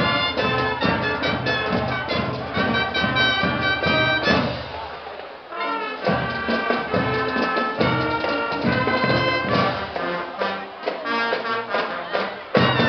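Brass band music, trumpets and trombones over a steady drum beat. It thins out a little before halfway and comes back in full about six seconds in.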